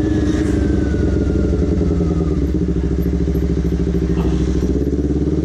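Honda CBR250RR motorcycle engine and exhaust running steadily, with a loud exhaust note.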